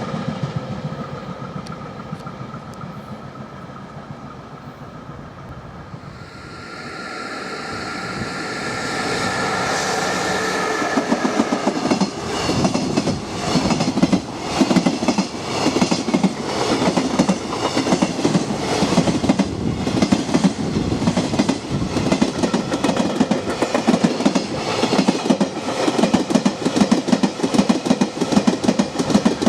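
A freight train fades away, then a second one, hauled by a JR Freight EF66 electric locomotive, comes in with a steady whine about six seconds in. From about twelve seconds on, its container wagons clatter past in a fast, even rhythm over the rail joints.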